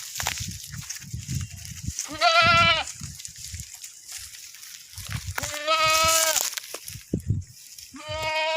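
Goats bleating: three calls a few seconds apart, the first short and quavering, the second longer, the third beginning near the end, with low rustling and knocks in between.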